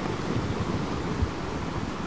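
Ocean waves washing on a shore: a steady rushing noise with a low rumble.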